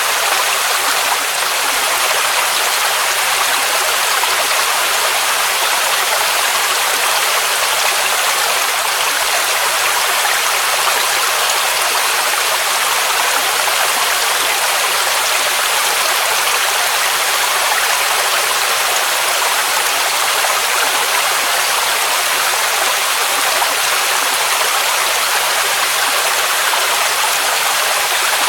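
Waterfall: water rushing steadily as an even hiss, unchanging throughout, with most of the sound in the middle and high range and little low rumble.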